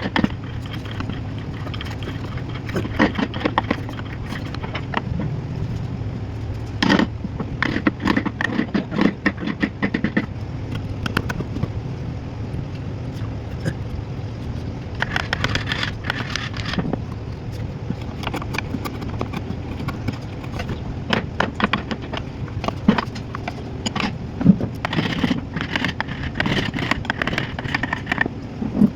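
Wood carving: a tool scraping and tapping against wood in short bouts of quick strokes, over a steady low hum.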